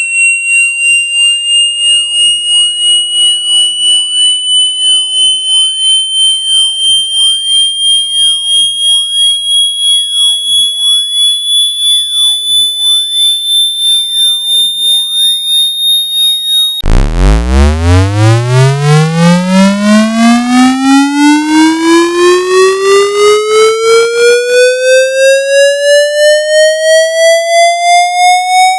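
Electronic water-eject test tone: a high tone pulsing about twice a second and gliding slowly upward. About 17 s in it switches abruptly to a buzzy tone that sweeps up from a low hum, quickly at first and then more slowly, still pulsing.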